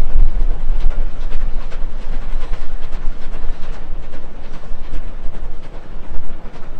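Narrow-gauge steam-hauled train running: a continuous loud, deep rumble with irregular clicks and clatter from the rails.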